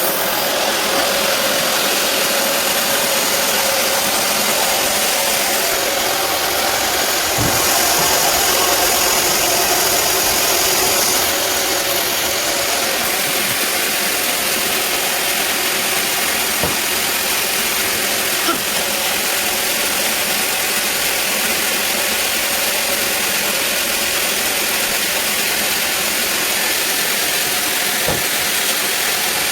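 Band sawmill running steadily on a teak log, a continuous loud mechanical noise from its motor and blade, with a few faint knocks.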